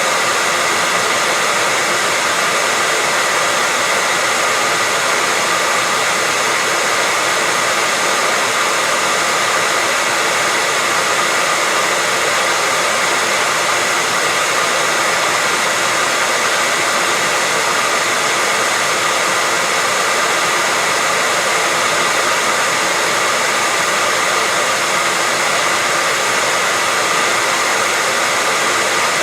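Electric hair dryer running steadily: an unchanging airy whoosh with a faint motor whine in it.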